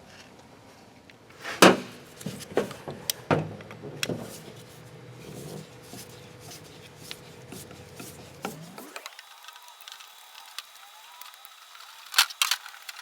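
Scattered knocks, clicks and rubbing from a two-barrel Holley carburetor and tools being handled on a workbench as its disassembly begins. About nine seconds in, the low end drops out abruptly and the sound turns thin, with a quick run of clicks near the end.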